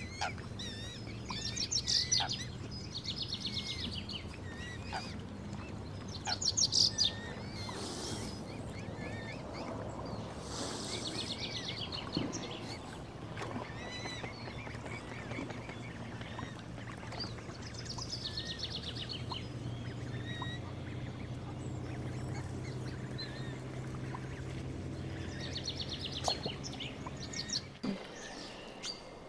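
Waterbirds calling on a lake, ducks among them: several short bursts of rapid repeated calls over a steady low background hum.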